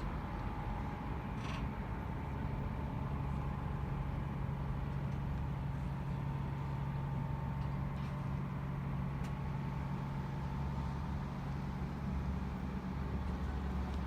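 Small ferry's diesel engine running with a steady low drone, with a few faint clicks over it.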